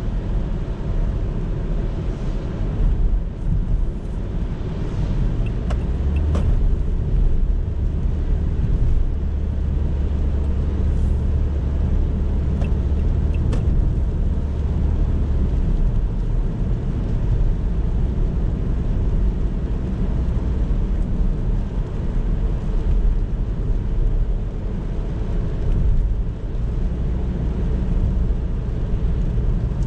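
Car driving on a road: a steady low rumble of engine and tyre noise. The lowest rumble grows heavier for about ten seconds from around six seconds in, with a few faint ticks.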